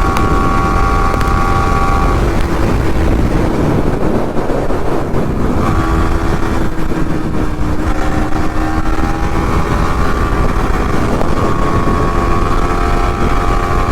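Motorcycle running at road speed, its engine note steady under heavy wind buffeting on the microphone. The engine tone drops away for a moment about four seconds in, then comes back.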